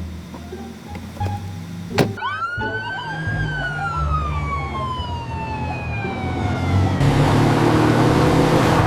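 A whistle-like tone that jumps up after a click, then glides slowly down over about five seconds, over background music with a steady bass. About seven seconds in, a loud rushing hiss takes over.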